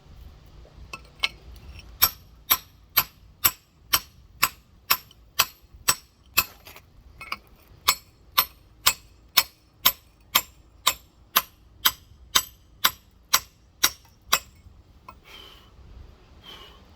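Rock hammer tapping the shell of a large geode in a steady rhythm, about two sharp strikes a second, going around the stone to crack it, then stopping near the end.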